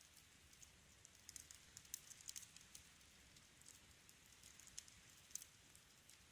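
Wood fire crackling faintly: irregular sharp pops and snaps over a soft hiss, with a quick cluster of pops a little over a second in and single louder snaps near the end.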